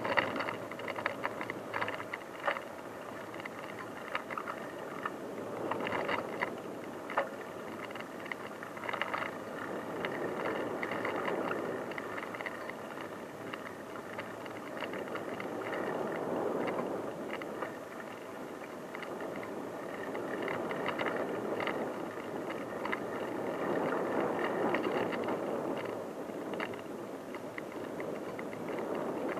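Bicycle being ridden on an unpaved track: steady tyre and riding noise that swells and eases, with scattered rattles and knocks, busiest in the first ten seconds or so.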